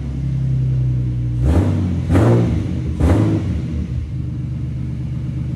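Ford BA Falcon's engine idling through its newly fitted second-hand exhaust, blipped three times in quick succession between about one and a half and three seconds in, the middle rev the loudest, then settling back to idle.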